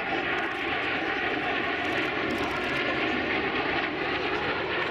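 Vintage jet fighter's turbojet engine running overhead: a steady rushing noise with a faint whine.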